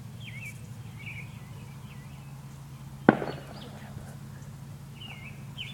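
A bird gives short, high chirps, several in a row, with a pause in the middle. A single sharp click comes about three seconds in, over a steady low hum.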